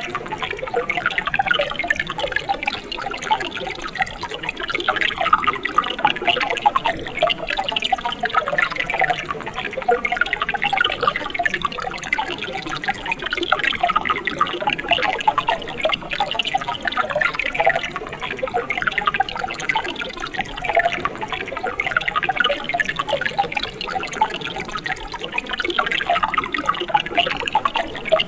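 Mountain stream water splashing and gurgling over rocks, a steady dense patter of small splashes with no change in flow.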